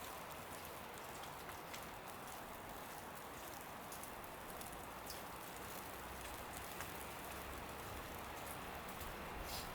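Falling wet snow pattering on surfaces: a steady soft hiss with scattered light ticks at irregular times, a few more near the end.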